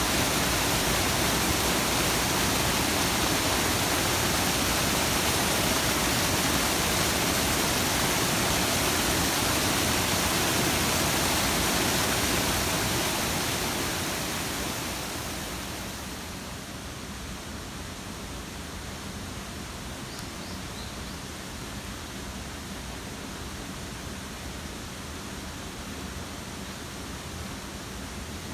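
Steady rain noise, an even rushing hiss. About halfway through it grows quieter over a couple of seconds, then holds steady.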